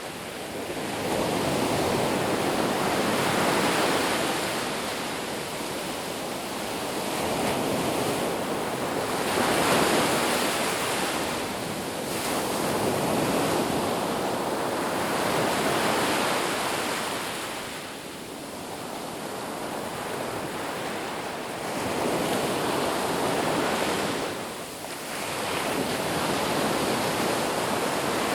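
Ocean surf: waves breaking and washing ashore in a continuous hiss that swells and fades every three to four seconds.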